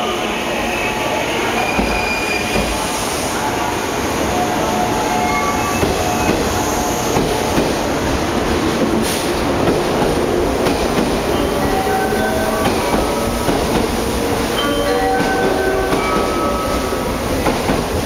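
JR West 183 series electric train pulling out and running past along the platform: a steady rumble of wheels on rail, with short wheel squeals now and then.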